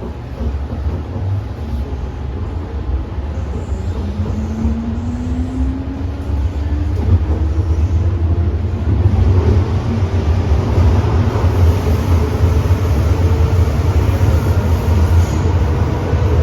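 MTR M-Train heard from inside the car, accelerating after leaving a station. A traction-motor whine climbs steadily in pitch from about four seconds in, over a low rumble of the wheels on the track that grows louder as the train gathers speed.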